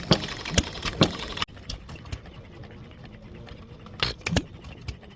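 Antique hit-and-miss gas engine running, firing in sharp pops about twice a second. About a second and a half in the sound cuts abruptly to a quieter engine with faint ticks and two louder firing pops close together near the end.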